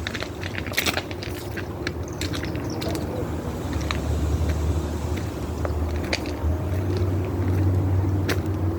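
Diesel locomotive engines rumbling low and steadily, growing louder about four seconds in, with scattered sharp clicks and knocks.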